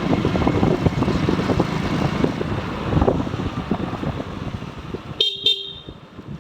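Motorcycle ride: wind buffeting the microphone over engine and road rumble, which drops away near the end. About five seconds in, a vehicle horn gives two short toots.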